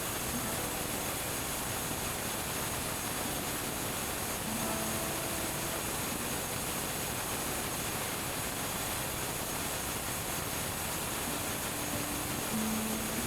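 Logosol B1001 band sawmill running: a steady, even hissing machine noise with no change in pace, and a few faint short tones underneath.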